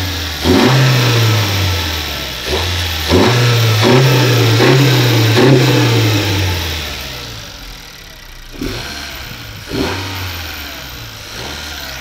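Honda Civic FK7's 1.5-litre turbocharged four-cylinder engine, breathing through an MST cold air intake with its filter box lid closed, revved in a run of short throttle blips, its pitch rising and falling with each one. After about seven seconds it drops back toward idle, with three smaller blips near the end.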